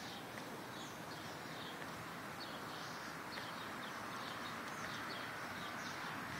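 Small birds chirping in quick runs of short, high notes over a steady outdoor background hiss.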